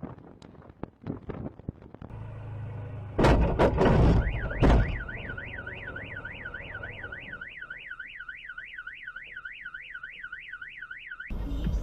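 Loud impacts about three seconds in, as in a collision, then a car alarm wailing up and down about three times a second until it cuts off abruptly near the end.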